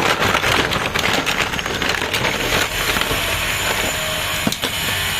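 Toys and rocks being rummaged and handled: irregular clicks, knocks and rustling over a steady background noise.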